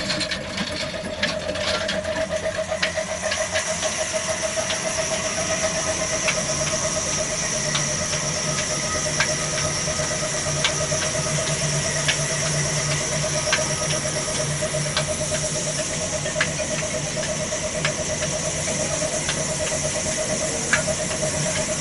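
Petter diesel engine running steadily and driving a wood-cutting saw machine, with a steady pulsing whine over the engine and scattered sharp ticks.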